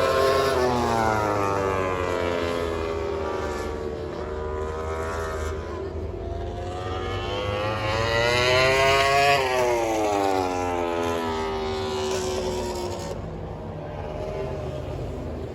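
MotoGP race motorcycle engines passing at speed: the pitch falls, climbs steeply to a peak about nine seconds in, then drops sharply as a bike goes by, fading near the end.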